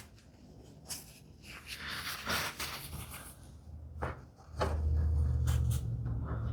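Light knocks and a stretch of rubbing as wood pieces and glue are handled on the bench, then a steady low hum starts about four and a half seconds in and keeps going.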